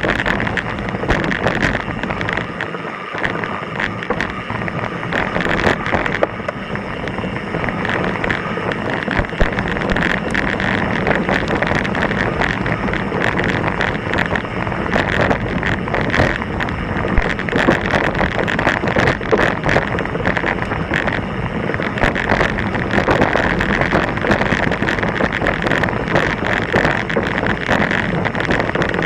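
Mountain bike descending a rocky, loose trail: a steady run of rattling and clattering from the bike and its tyres over the rocks, with wind rushing on the microphone.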